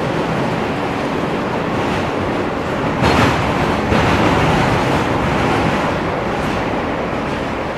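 Inside an R160 subway car running between stations: steady wheel-on-rail and running noise, with a louder rattling stretch lasting about a second, about three seconds in.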